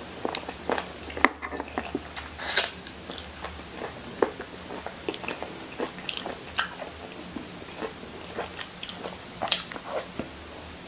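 A person chewing and sucking tender soy-braised salmon head off the bones and fingers, with irregular short smacks and clicks, a louder one about two and a half seconds in.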